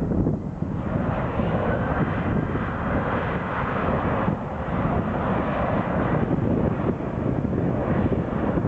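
Airliner engine noise as a plane passes the airfield, a broad rushing roar that builds about a second in and eases near the end, over wind buffeting the microphone.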